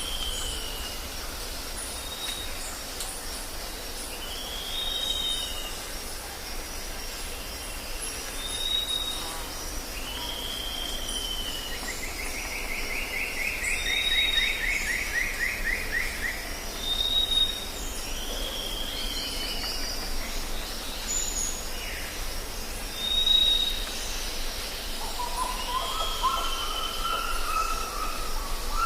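Jungle ambience: birds calling with short whistled notes repeated every second or two, a long buzzy trill sliding downward about halfway through, and lower wavering calls near the end, over a steady high insect buzz.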